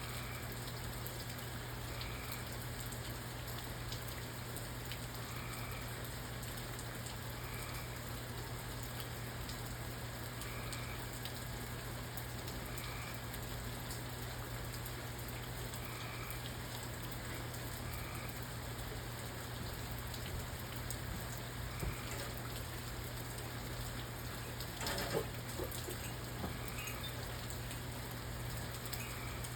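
Steady rain falling, an even hiss of drops, under a low steady hum. A faint short chirp repeats every two to three seconds, and a single brief knock sounds near the end.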